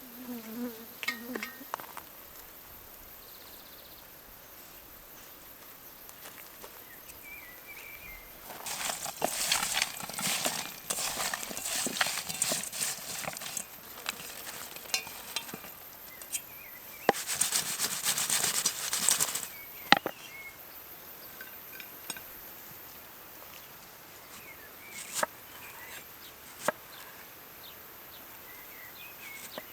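Food frying in a pan over a wood fire, heard in two spells of sizzling and clattering, the first about five seconds long and the second about two, with a few sharp clicks after them.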